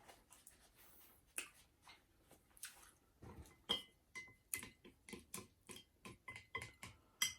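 Eating sounds: a few sharp clicks of chopsticks against the bowl, then rhythmic chewing, about two to three chews a second, with a sharp click near the end.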